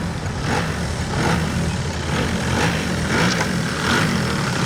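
A small engine running steadily at low speed, its pitch wavering slightly. Most likely an RC model airplane's engine.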